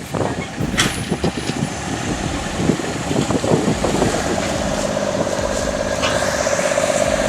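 Heavy truck engine running under load, with scattered knocks and clatter in the first few seconds, then settling into a steady drone from about halfway.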